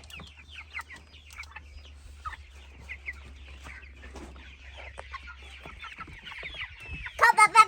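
A flock of three-week-old Cornish Cross broiler chicks peeping, many short falling chirps overlapping, over a low steady hum. Near the end a child's voice rises loudly over them.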